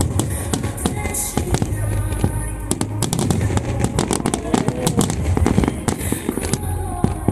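Large aerial fireworks bursting in quick succession with crackling, heaviest in the middle, over music playing alongside the display.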